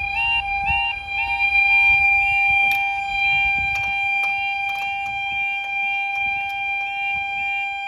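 Level crossing warning alarm sounding, warning of an approaching train: a two-tone warble stepping up and down about three times a second over a steady tone. A low rumble underneath fades out about four seconds in.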